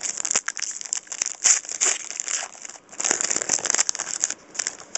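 Trading-card pack wrapper crinkling and rustling in the hands as a pack is opened and its cards handled, in an irregular run of crackly rustles and small clicks.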